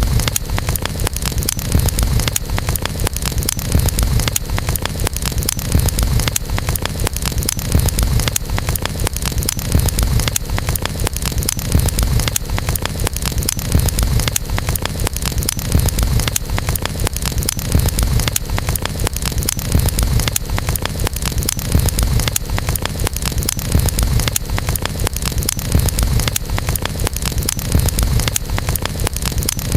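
Wood campfire crackling steadily, with dense irregular pops and snaps over a low rumble from the flames.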